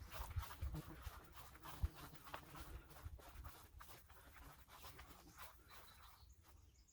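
Faint footsteps and rustling, a string of soft, irregular crunches and scrapes, growing quieter toward the end.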